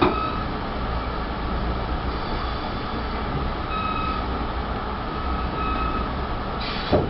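Train running on the rails: a steady rolling rumble with brief faint squeals, and a sharp clack at the start and another near the end.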